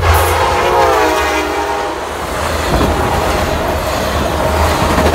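Train horn sounding a chord for about two seconds, its pitch sliding down as the train passes, then the train rolling by with a steady rumble and wheel clatter.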